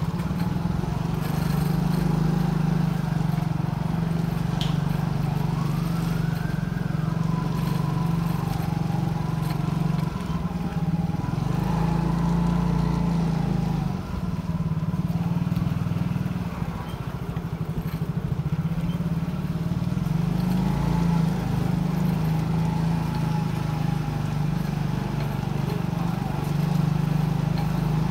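Motorcycle engine running steadily on the move, a low even drone with only small dips in level.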